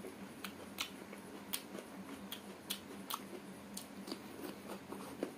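Cucumber being bitten and chewed close to the microphone: irregular crisp crunches, about two a second, over a faint steady hum.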